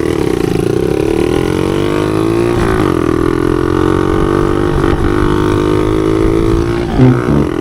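Small pit bike engine pulling hard, its pitch climbing over the first few seconds, dropping briefly, then holding a steady high drone.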